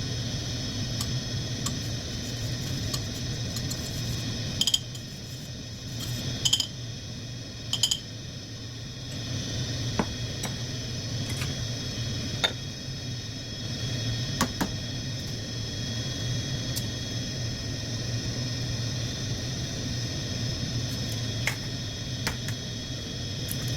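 Steady electrical hum with a thin high whine, broken by a few short sharp clicks or clinks, the loudest about five, six and a half and eight seconds in.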